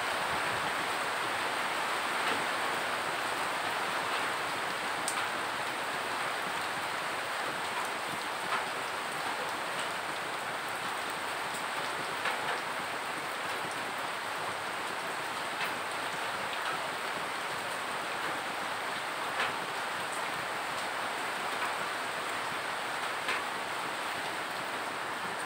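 Steady rain falling with an even hiss, and now and then a single louder drop tapping sharply on the open umbrella.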